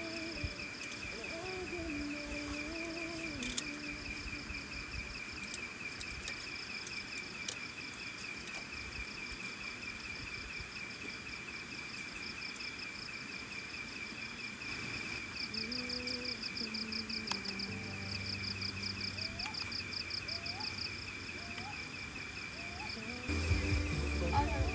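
Insects trilling in the forest: one steady, rapidly pulsing high trill throughout, with a second, higher trill joining now and then over a faint hiss. Faint distant voices can be heard underneath.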